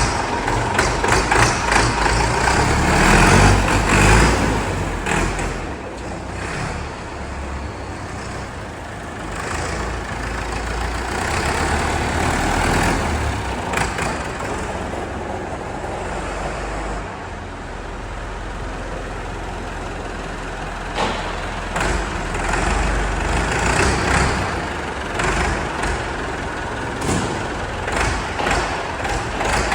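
Massey Ferguson 165 tractor engine running, a steady low rumble that swells and eases, with scattered knocks and clatter over it.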